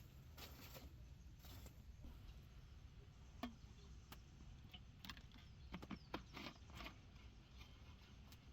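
Near silence: a low steady hum of background noise with a few faint, scattered clicks and taps, several of them close together just past the middle.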